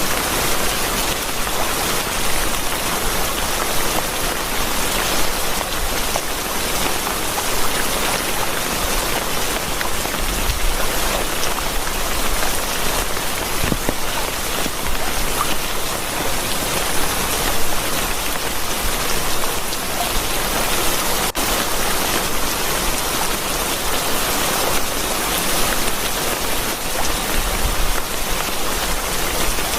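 Steady, heavy rain falling, an even hiss of many drops without a break.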